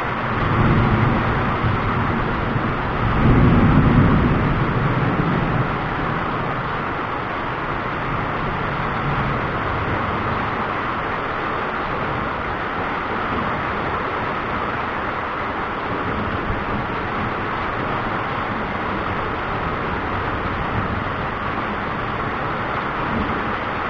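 Thunder rumbling low twice in the first five or six seconds, the second rumble the louder, over a steady hiss.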